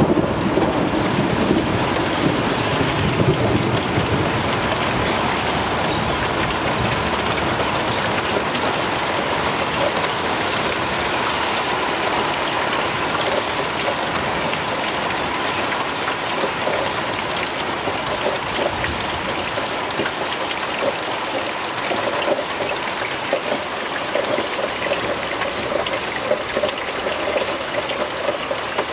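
Heavy rain pouring down in a thunderstorm: a dense, steady hiss of drops. A low rumble of thunder fades out over the first few seconds.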